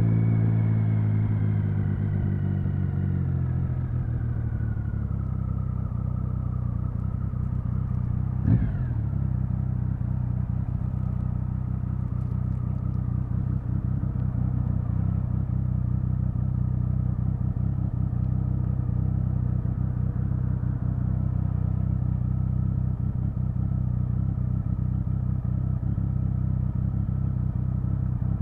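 Triumph Speed Triple 1050's inline three-cylinder engine, its revs falling over the first few seconds as the bike slows, then idling steadily. One quick throttle blip comes about eight and a half seconds in.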